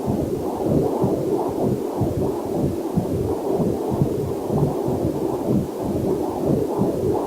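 Pulsing, whooshing heartbeat sound picked up by a fetal Doppler heart monitor, beating two to three times a second, with a faint waterfall hiss mixed in underneath.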